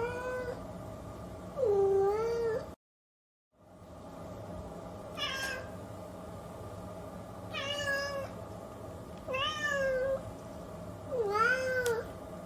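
Domestic cat meowing repeatedly, about six separate meows a second or two apart, some rising and falling in pitch, over a steady background hum. The sound cuts out completely for about a second near three seconds in.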